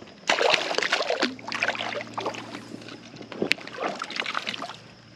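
Water splashing and sloshing in irregular bursts, with a sharp click about three and a half seconds in.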